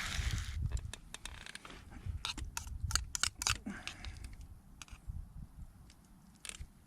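Food frying stops sizzling about half a second in, followed by a scatter of sharp clicks and taps, several close together in the middle and one more near the end.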